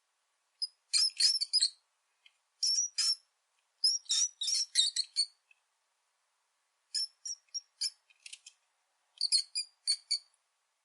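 Rat squeaking: short high-pitched squeaks in quick clusters of several, with pauses between the clusters.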